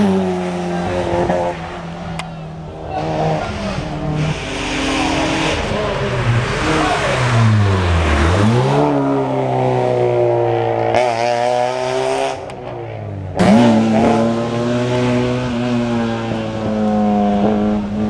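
Hill-climb race car engine at hard throttle, revs rising and falling through the gears with short sharp cuts at the shifts. About eight seconds in the revs drop low and climb back as the car slows for a bend and accelerates out of it.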